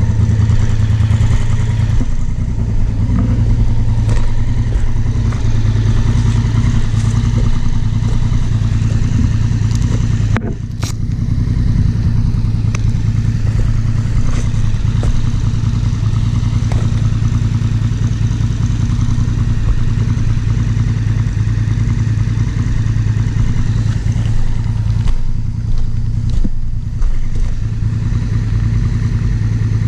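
Honda Africa Twin CRF1000L's parallel-twin engine running steadily under way, with a brief dip in its note about ten seconds in.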